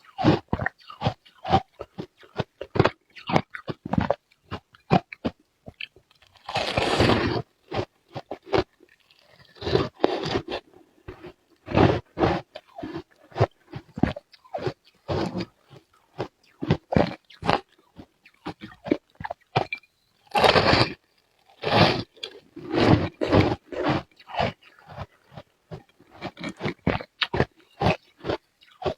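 Ice being bitten and chewed close to the microphone: a rapid run of sharp crunches, with a few longer grinding crunches about seven seconds in and again past twenty seconds.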